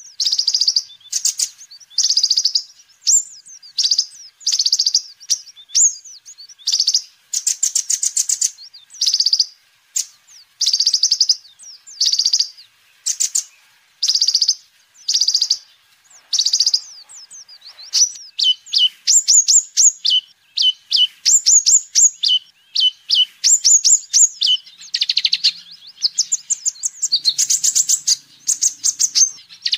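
A sunbird (kolibri ninja) singing: short bursts of high, rapid twittering, one or two a second. In the second half these break into quick strings of sharp, falling notes.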